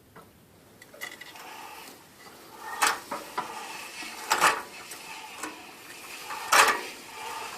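Valve gear of a Petter PH1 single-cylinder diesel, with the valve cover off, as the engine is turned over slowly by hand. Three sharp metallic clacks come about every two seconds, with lighter clicks and scraping between them. The valves are free and opening and closing, not stuck.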